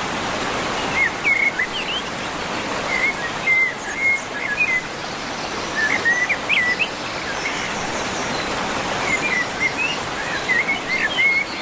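Small birds chirping in quick little phrases of a few notes every couple of seconds, over a steady rushing hiss like flowing water or rain.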